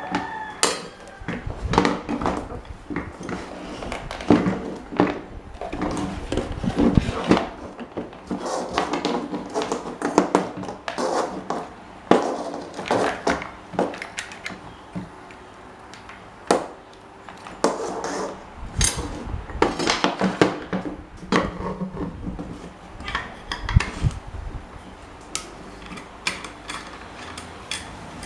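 Metal parts and hand tools clinking and knocking irregularly as an old electric fan is worked on by hand.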